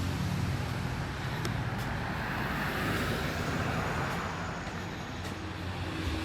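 Steady road traffic: a low rumble of car engines and tyres, with a few faint ticks.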